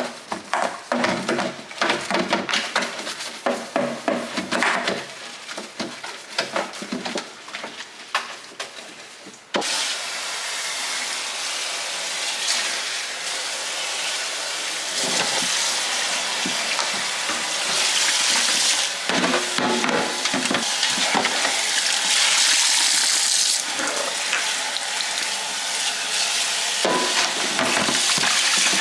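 Scattered knocks and clatter of containers and fridge parts being handled, then about a third of the way in a kitchen tap comes on suddenly and water runs steadily into the sink while a fridge shelf is washed.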